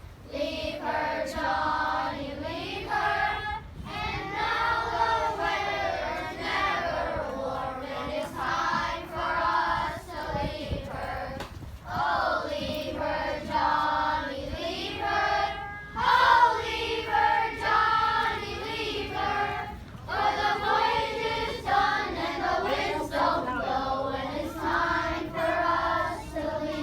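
A group of children singing a song together, many voices at once.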